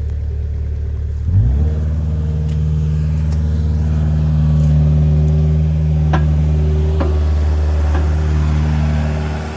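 An engine running steadily, then revving up about a second in and holding at the higher speed, with a few metallic clanks along the way; it eases off near the end.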